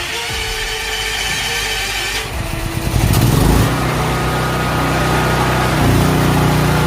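Firman Tri-Fuel 9400W portable generator's engine starting: it cranks, catches about three seconds in, then settles into steady running.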